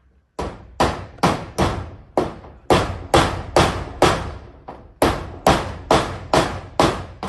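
Hammer nailing down corrugated zinc roofing sheet: a run of about sixteen sharp strikes, roughly two a second, each ringing briefly in the metal.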